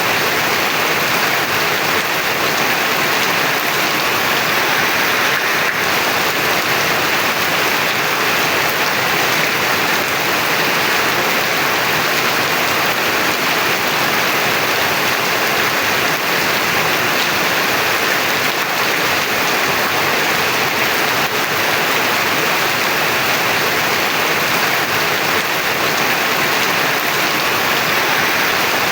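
Heavy rain falling steadily on surfaces, an even, unbroken hiss.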